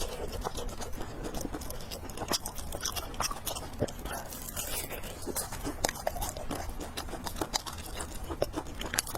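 Close-miked chewing and slurping of fried noodles and pork, with many sharp wet clicks and smacks.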